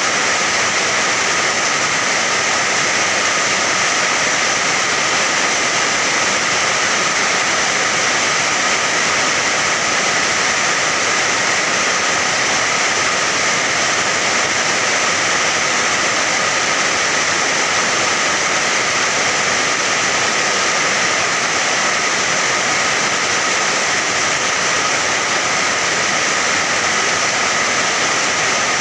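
Steady rain, a dense, even hiss with no single drops or changes standing out.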